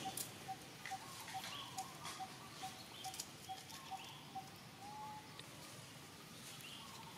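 Outdoor ambience led by a bird repeating one short note of the same pitch, about two and a half times a second. There are a few brief higher chirps, a gliding call about five seconds in, and faint small clicks.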